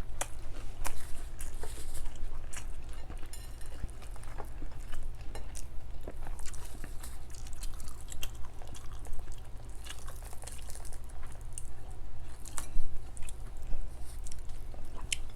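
Close-miked chewing and crunching of fried milkfish and rice, with irregular short sharp clicks throughout, over a steady low hum.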